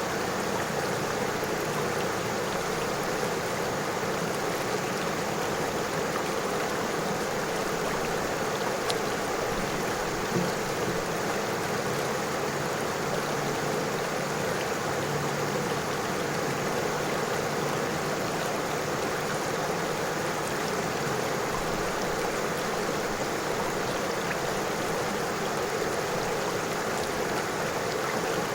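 A river flowing steadily over stones: an even rush of water.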